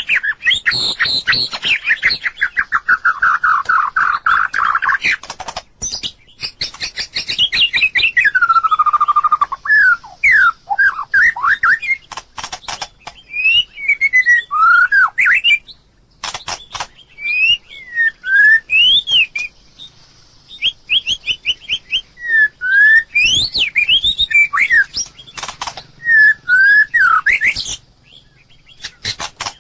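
White-rumped shama singing a long, varied song: rapid trills, clear whistled slurs rising and falling in pitch, and sharp clicking notes, in phrases broken by brief pauses.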